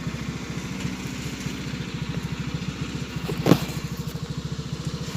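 Homemade tractor's Shineray motorcycle engine running steadily at low speed, its exhaust pulsing evenly, with one sharp clank about three and a half seconds in.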